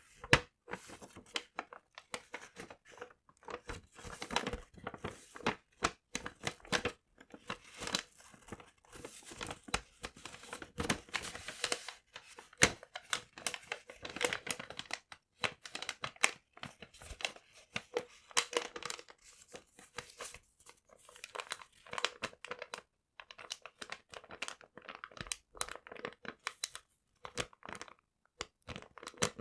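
Paper being handled close to the microphone: dense, irregular crinkling and crumpling with tearing, thinning to scattered crackles in the last several seconds.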